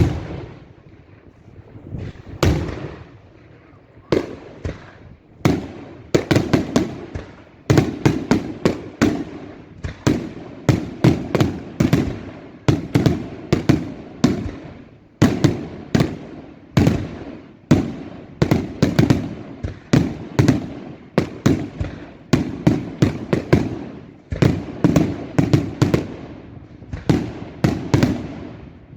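Daylight aerial fireworks exploding in rapid volleys: dense clusters of sharp bangs and cracks, one after another, with echoing booms between them, thickening after the first few seconds into an almost unbroken barrage.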